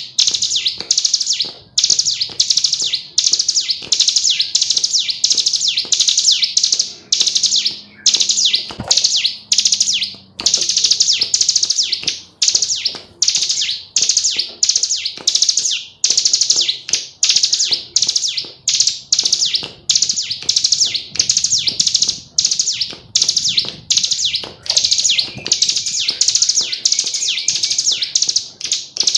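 Female ciblek gunung, a prinia, calling without pause: short, high, rapid chattering phrases repeated about two or three times a second.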